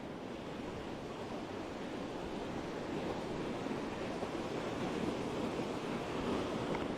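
Ocean surf washing onto a beach, the sound of the breaking wave swelling louder through the second half, with some wind rumble on the microphone.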